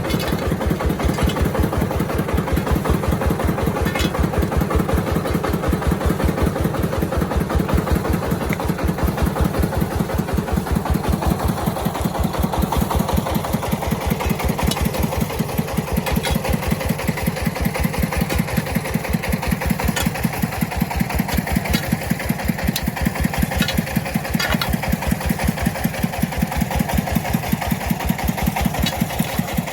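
Engine of an agricultural vehicle running steadily with an even, rapid beat of exhaust pulses.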